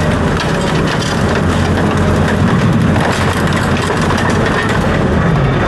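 Loud, steady rumble of a vehicle or heavy machine, with constant rattling and crackling over it.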